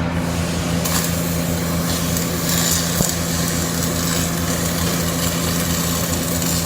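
CO2 (MIG) welding: a steady electrical hum under a continuous crackling hiss that flares up now and then.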